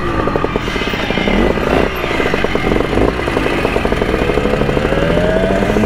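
Simson two-stroke moped engine running under way, its pitch dipping briefly and then climbing slowly as it is revved up.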